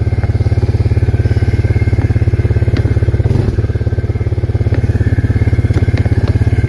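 Arctic Cat 366 ATV's single-cylinder four-stroke engine running steadily, with a brief dip in speed about halfway through and a few light clicks.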